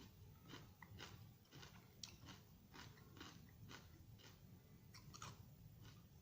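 Faint close-up chewing of a raw vegetable salad: an irregular run of soft, crisp crunches, about two or three a second.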